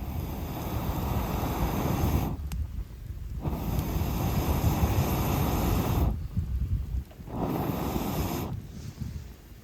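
Rushing air noise in three long surges with short breaks between them.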